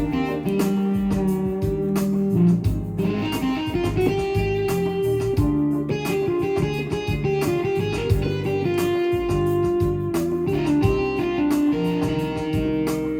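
Korg Pa1000 arranger keyboard playing a factory style: an electric-guitar-like plucked-string sound over a steady drum beat.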